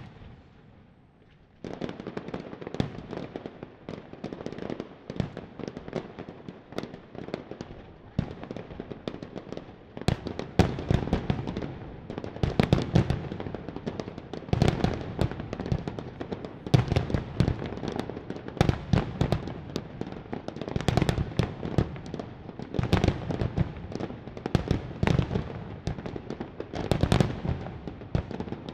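Fireworks display: a dense, continuous barrage of bangs and crackles that starts about two seconds in and grows louder and thicker about ten seconds in.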